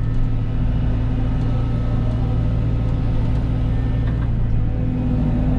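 Cat 313 excavator's diesel engine running steadily.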